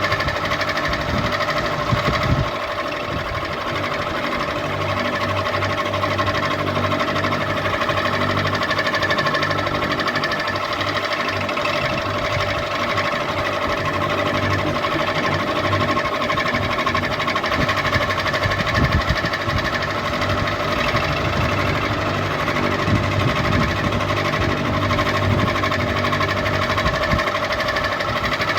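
Ceiling fan running steadily: a constant motor hum with several steady whining tones over a low rumble.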